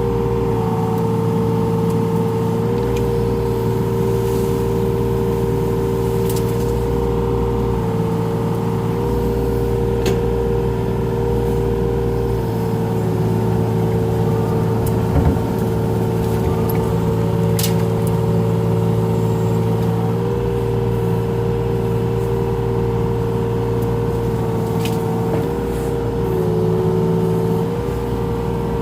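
Mini excavator engine running steadily at working speed. Its low rumble swells and falls away several times and its note dips briefly now and then, with a few short sharp clicks.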